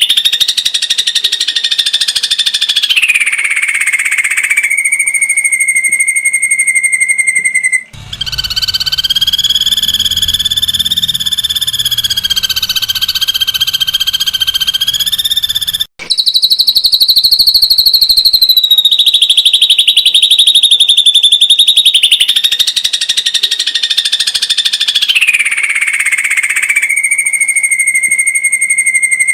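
Ashy drongo giving its rapid-fire 'tembakan' call: a very fast, dense trill of repeated notes held at one pitch, then sliding down to a lower pitch and holding there. The stretches break off sharply about every eight seconds and start again.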